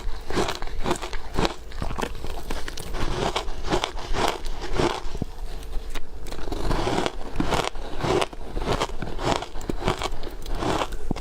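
Ice being bitten and chewed close to the microphone: a rapid run of sharp crunches, several a second, with a slightly quieter stretch about midway.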